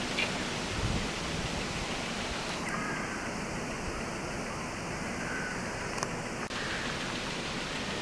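Steady outdoor background hiss, like wind on the microphone, with a few faint bird chirps.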